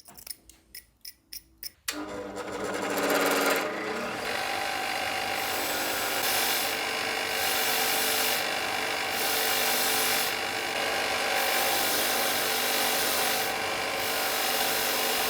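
A quick run of clicks, then a power tool starts, spins up over about a second and a half and runs steadily. A hissing, scrubbing sound comes and goes every second or so as the work is pressed against it and eased off.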